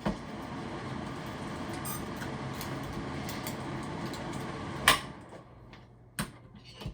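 Bathroom exhaust fan motor running with a steady whir and hum, then about five seconds in a sharp pop as it blows the fuse, after which the fan cuts out and winds down. A smaller click follows a second later.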